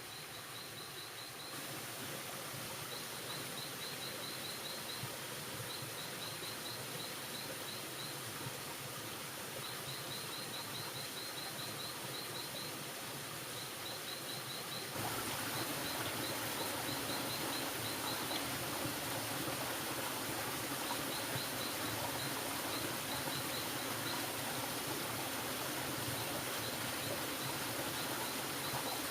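Forest ambience: a steady hiss with a high-pitched insect chirping in short trains of rapid, evenly spaced pulses, repeating every second or two. The hiss grows louder about halfway through.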